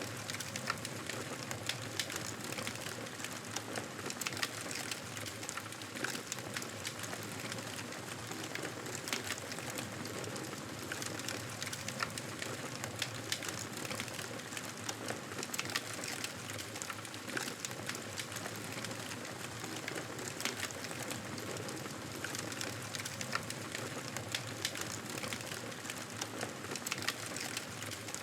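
Wood fire crackling: a steady hiss under frequent, irregular sharp pops and snaps.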